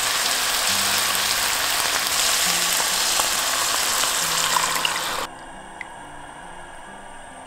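Bacon and onion sizzling in a hot pan as milk is poured in; the sizzle cuts off suddenly about five seconds in, leaving only soft background music.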